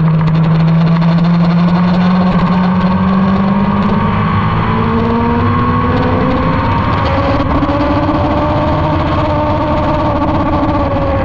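Motorcycle engine under way, its pitch climbing slowly over several seconds as it pulls, over a steady rushing noise.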